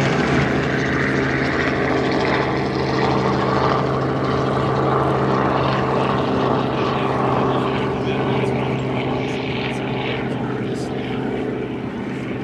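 A propeller airplane's engine drones steadily overhead at a constant pitch, easing off slightly near the end.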